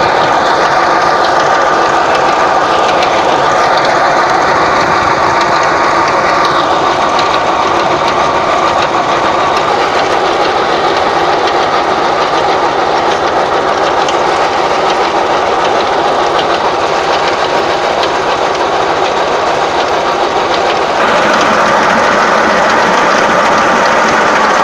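Tractor engine running steadily, driving a PTO water pump, a dense, loud mechanical noise. A faint high whine comes and goes over the first few seconds, and the sound steps up slightly about three-quarters of the way through.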